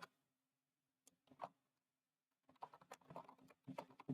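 Faint typing on a computer keyboard: a few separate keystrokes, then a quick run of keys from about halfway through.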